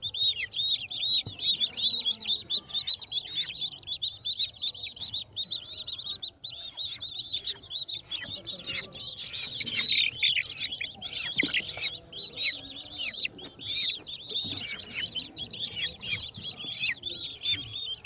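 A flock of young chicks peeping continuously, many short, high, falling peeps overlapping several times a second.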